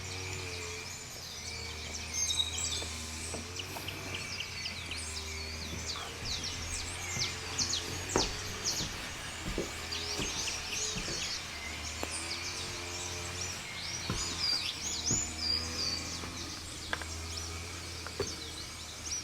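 Forest ambience with a dense chorus of many birds chirping and trilling, calls overlapping without pause. A steady high hum and a low drone run underneath.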